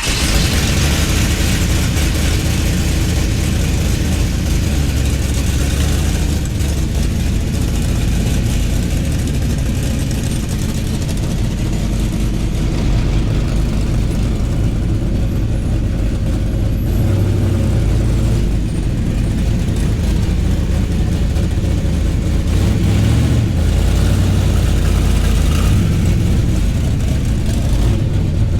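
Car engine idling close by, a steady low engine note with small swells in level.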